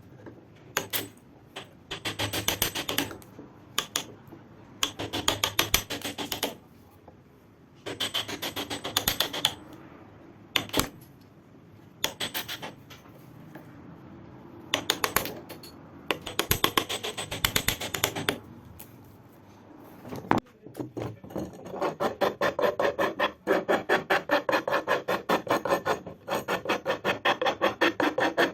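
Hand filing by hand: short bursts of quick scraping file strokes with pauses between them, then steady, unbroken filing through the last several seconds.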